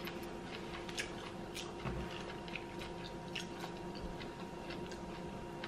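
Two people chewing mouthfuls of fresh herbs and a jellied beetroot dish, with small irregular mouth clicks about once a second over a steady faint hum.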